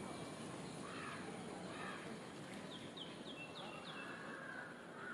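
Birds calling: a few drawn-out, arching calls, the longest near the end, and a quick run of about five short high chirps in the middle. Faint, over steady outdoor background noise.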